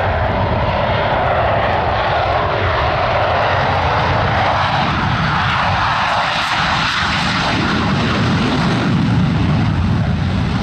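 Airplane engine noise, loud and steady. A higher tone fades about halfway through while a low rumble grows.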